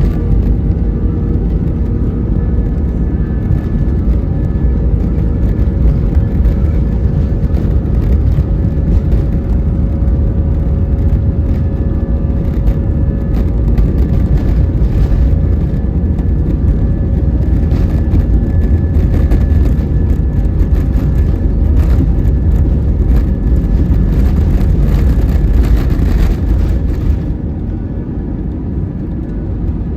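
Jet airliner engines heard from inside the passenger cabin: a loud, steady rumble with a faint hum over it. The noise drops somewhat about 27 seconds in.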